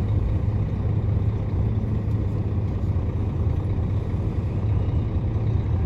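Semi-truck's diesel engine running steadily at low speed: an even, low rumble.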